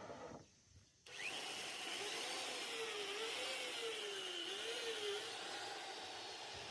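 Power drill starts about a second in and runs steadily, boring holes into a wooden plank, its motor pitch wavering up and down as the load changes.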